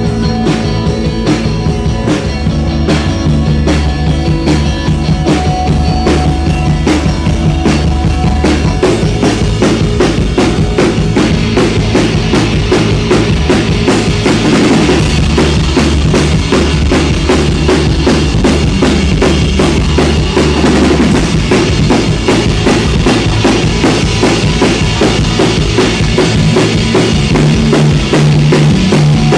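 Live rock band playing an instrumental passage, drum kit to the fore with a steady beat and sustained bass notes under guitar. The sound grows fuller about halfway through.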